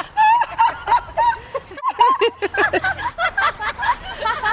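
High-pitched voices laughing and snickering, with a brief break about two seconds in.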